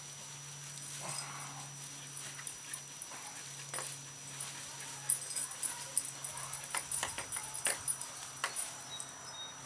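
A dog being washed while she stands in a plastic wading pool: scattered clicks and taps that grow busier about halfway through, over a low steady hum.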